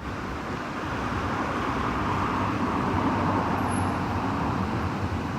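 Steady background rushing noise with no distinct events, of the kind road traffic makes.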